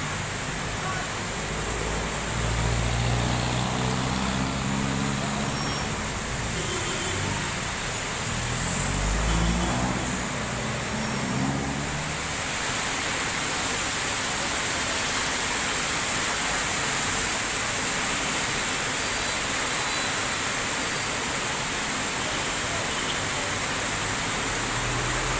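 Heavy rain pouring steadily onto a city street, with traffic on the wet road. During roughly the first half, a passing vehicle's engine runs and then climbs in pitch as it speeds up, before fading back into the rain.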